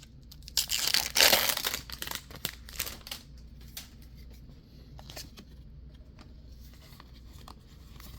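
Foil wrapper of a Pokémon card booster pack being torn open and crinkled, loudest in the first three seconds, then faint rustling and small clicks of the cards being handled.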